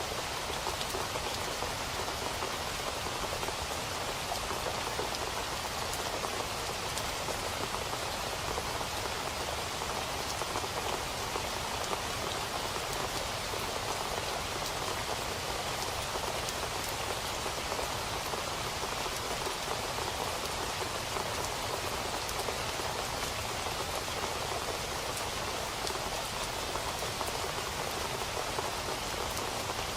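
Steady rain falling on a surface, an even hiss with many fine drop patters and no change in strength.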